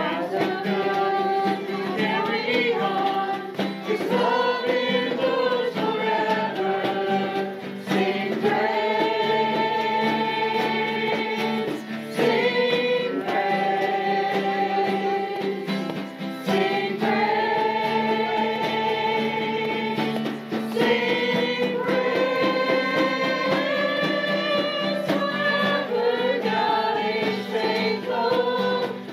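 Congregation and worship team singing a praise song with instrumental accompaniment, held notes moving in steps over a steady low bass.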